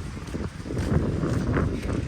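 Wind buffeting the microphone in gusts, a rough low rumble.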